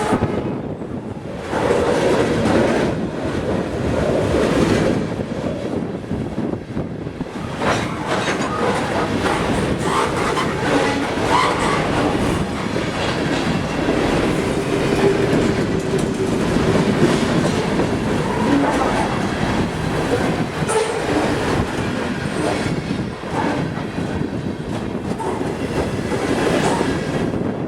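Short freight train rolling past, steel wheels clacking over rail joints and crossings with brief wheel squeal, a steady loud rumble throughout.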